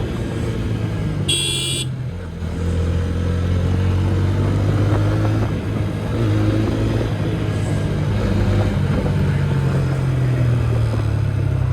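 TVS Apache RTR 160 4V's single-cylinder engine running under way; its note drops and dips in loudness about two seconds in, then picks up again as it pulls steadily. A short high-pitched beep sounds about a second and a half in.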